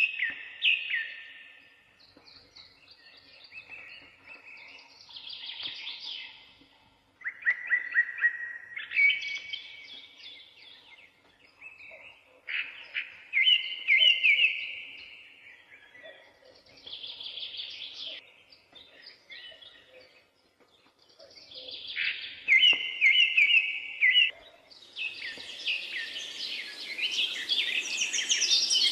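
Songbirds singing: a string of separate whistled and trilled phrases, each a second or two long with short pauses between. Near the end the song thickens and a steady hiss comes in beneath it.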